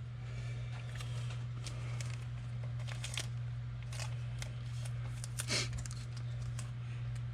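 A steady low hum with faint, scattered rustles and light clicks of trading cards and foil packs being handled.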